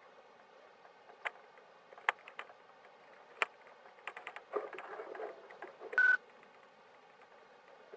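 Inside a patrol car: a few sharp clicks, about a second of rustling, then one short, loud electronic beep about six seconds in.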